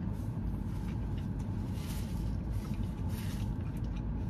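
Steady low rumble of a parked car idling, heard from inside the cabin, with a few brief crisp noises over it.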